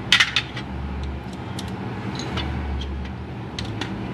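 Hand tools clicking against metal parts: a quick cluster of sharp clicks right at the start, then light scattered clicks, over a low hum that swells and fades about every two seconds.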